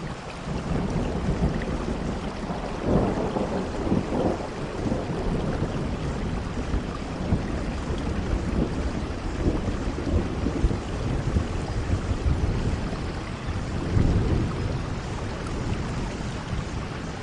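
Rainfall with low rolling rumbles of thunder, the strongest about three to four seconds in and again near fourteen seconds.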